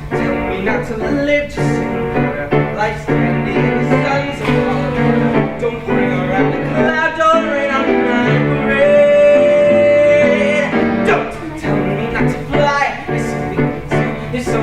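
Piano accompaniment with a voice singing over it, including one note held for about a second and a half roughly two-thirds of the way through.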